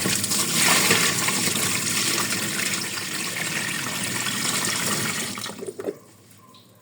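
Water rushing into a container, easing off and stopping near the end.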